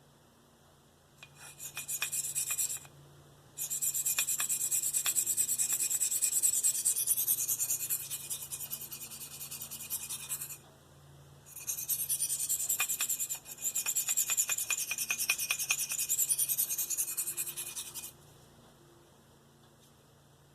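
Steel knife blade stroked repeatedly across an oiled Spyderco medium ceramic sharpening stone, making a high scraping hiss. It comes in three runs of strokes with brief pauses between, starting about a second in and stopping a couple of seconds before the end.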